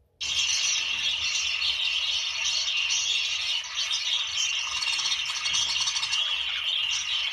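A flock of budgerigars chattering together in a dense, scratchy, unbroken mass of warbles and chirps that starts suddenly just after the beginning.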